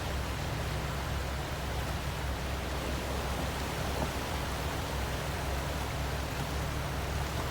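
Steady rushing of creek water over the low, steady hum of an off-road vehicle's engine running.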